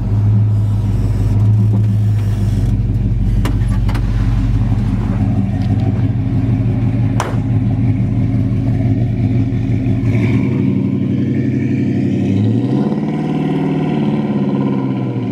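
Chevrolet 350 small-block V8 with a mild cam, running through headers and a Flowmaster dual exhaust as the pickup drives. It pulls steadily, then its pitch dips and climbs again near the end.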